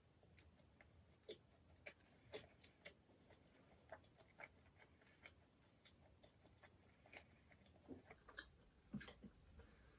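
Faint eating sounds: chewing and mouth noises with scattered irregular soft clicks, the loudest a little under three seconds in and again near the end.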